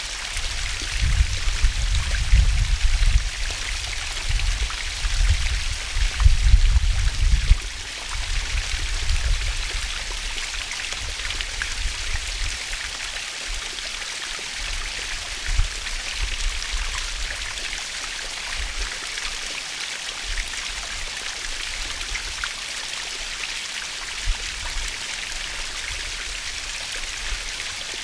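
Small waterfall splashing steadily with a constant hiss of falling water. Bursts of low rumble come and go over the first eight seconds or so.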